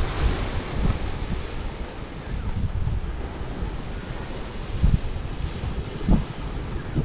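Strong wind buffeting the microphone in gusts, with an insect chirping in a steady, high-pitched pulse about four times a second.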